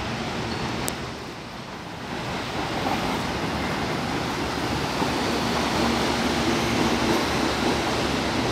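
CPTM Series 8500 electric multiple-unit train rolling past along the platform: a steady rumble of wheels on rail with a faint steady hum. It is louder from about two seconds in.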